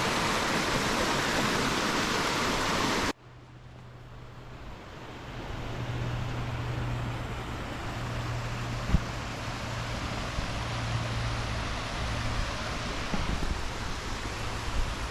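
Waterfall: a steady rush of falling water that cuts off abruptly about three seconds in. It is followed by a quieter rushing noise with a low steady hum, which grows louder over the next few seconds, with one sharp click midway.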